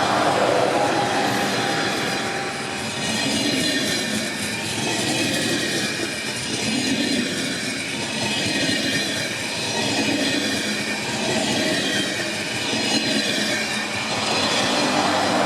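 Passenger train running past on the rails: a steady rush of wheels on track that swells and fades a few times, with faint high wheel squeal.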